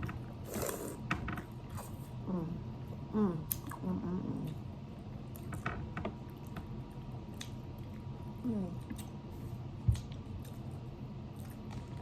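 Eating seafood: crab-leg shells cracking and clicking, with wet squishing of butter-sauced food and a few short hums of enjoyment. A sharper knock comes near the end.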